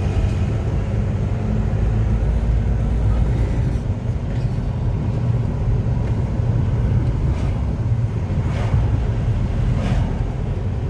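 A road vehicle running, a steady low rumble with road noise.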